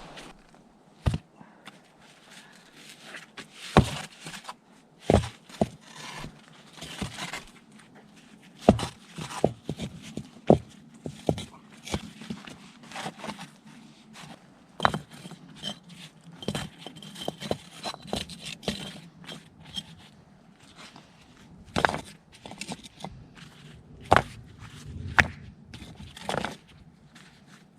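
Irregular knocks, clicks and scrapes of things being handled at close range, with several sharper knocks scattered through.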